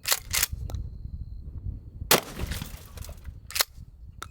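12-gauge shotgun firing into a pickup truck, with glass breaking. There are several sharp cracks, and the loudest, about two seconds in, is followed by a rattling crash that lasts most of a second.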